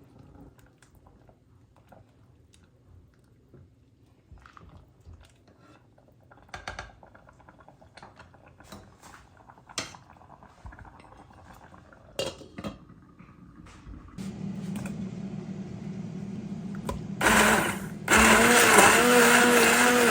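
Kitchen utensils and dishes clicking and tapping, then an electric blender motor starts about fourteen seconds in and runs much louder, with a wavering pitch, near the end.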